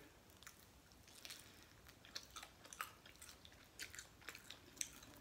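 Faint, close chewing: a person eating, with irregular short crisp crunches and wet mouth clicks.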